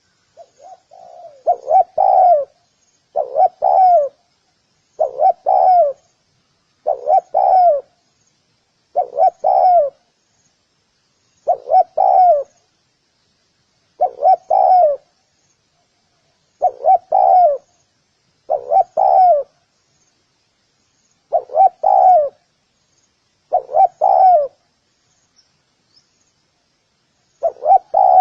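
Spotted dove cooing: a short phrase of two or three soft coos repeated about every two seconds, with faint high chirps in the background.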